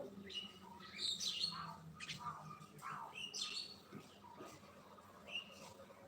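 Common mynas calling, a run of varied short chirps and squawky notes with a quieter stretch about four seconds in.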